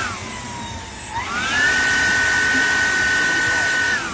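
Electric motorcycle motor whining as it is revved: the high whine sinks away at first, then about a second in climbs quickly to a steady high pitch, holds for about three seconds, and drops again near the end.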